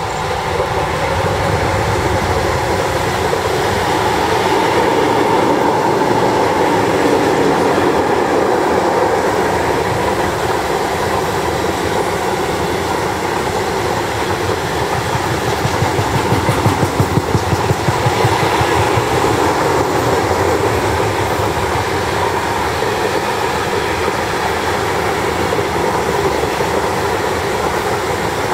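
A freight train of tank wagons rolls past close by behind an electric locomotive, with a steady rumble of wheels on the rails. The sound swells over the first couple of seconds as the locomotive goes by. A clickety-clack of wheelsets over the rail joints is plainest a little past the middle.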